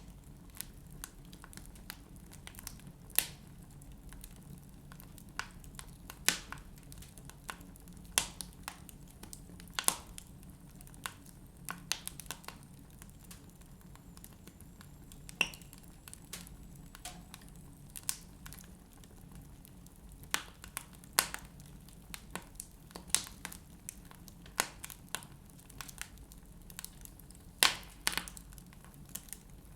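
Wood fire burning in a fireplace, crackling with irregular sharp pops a few seconds apart over a low steady hum.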